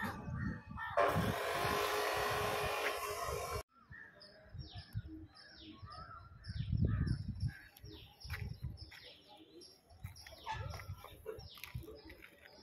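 Small birds chirping over and over, short high notes that fall in pitch about twice a second, over a low rumble that comes and goes. Near the start a loud rushing hiss lasts a few seconds and cuts off suddenly.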